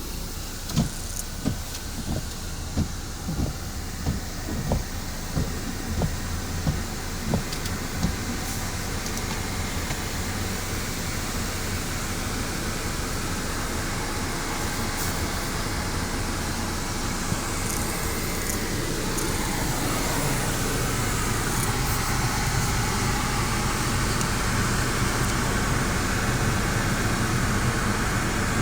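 Ryko Radius automatic car wash running. For the first eight seconds there is a regular thumping about one and a half times a second, then a steady rush of machinery and water that slowly grows louder, with a rising whine about two-thirds of the way through.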